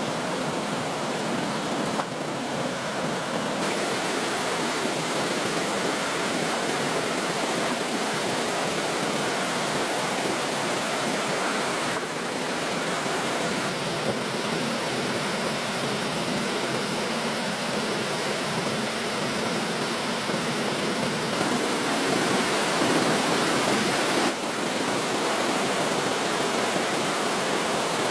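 Steady rushing of water, an even noise with no distinct events, its character shifting abruptly several times.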